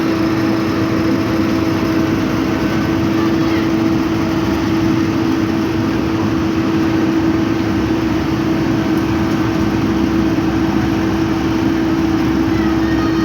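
Heavy road-paving machinery running steadily, a constant engine drone with a strong steady hum.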